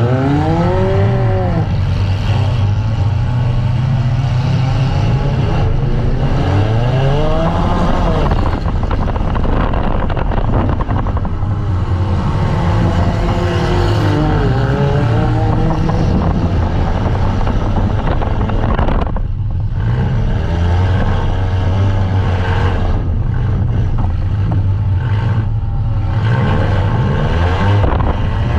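Compact demolition derby car's engine heard loud from inside its stripped cabin, revving up and falling back again and again as the car maneuvers.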